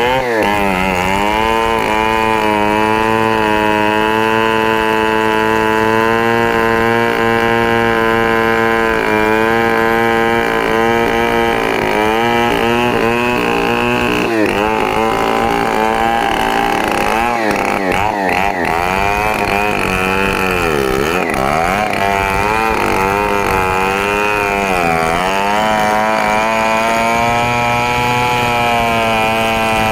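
Stihl MS 070 two-stroke chainsaw running at high speed through a cut. Its pitch dips and recovers several times as the engine bogs under load.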